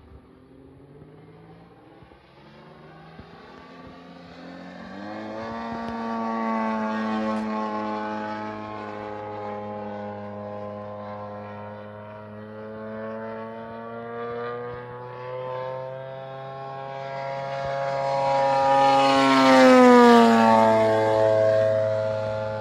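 100cc petrol engine and propeller of a large-scale RC model airplane running, faint at first, rising in pitch and loudness about five seconds in. Near the end it passes close, loudest, with its pitch falling as it goes by.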